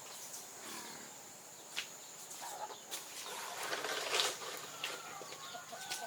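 Faint farmyard bird calls with a few light knocks and clicks from something being handled, the loudest about four seconds in, over a steady high hiss.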